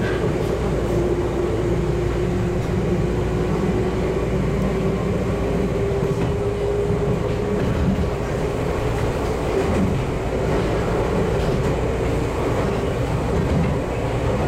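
Electric train running along the track, heard from the driver's cab: a steady rumble of wheels on rail, with a thin whine that rises slowly in pitch as it goes.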